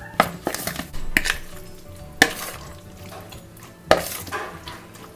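Spoon stirring raw chicken pieces through a thick, wet flour-and-egg marinade in a plastic bowl: irregular scrapes and knocks of the spoon against the bowl, the sharpest about two seconds in and again near four seconds.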